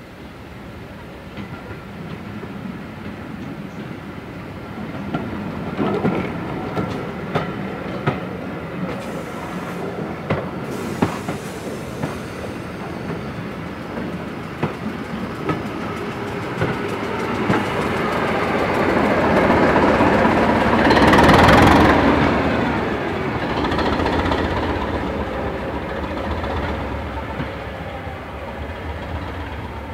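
A train running past on jointed track: wheels click over rail joints as it approaches, the noise builds to its loudest about two-thirds of the way through, then fades away.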